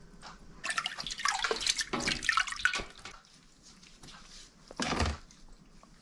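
Liquid dripping and splashing in irregular bursts, with a stronger splash about five seconds in, as curdled milk is worked into cottage cheese.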